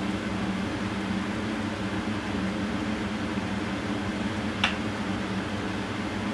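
A steady mechanical hum, like a fan or air-conditioning unit, with a single sharp click about four and a half seconds in.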